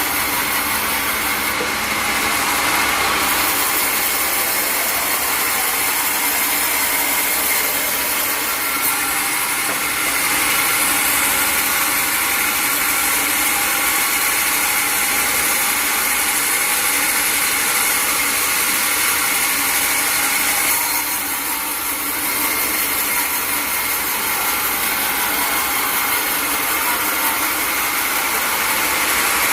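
Sawmill running steadily, a powered saw working through wood with a steady motor drone; the sound dips briefly about three-quarters of the way through.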